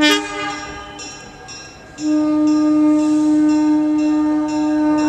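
A small excursion train's locomotive whistle sounds a short blast, then a long steady blast from about two seconds in. A bell rings about twice a second underneath.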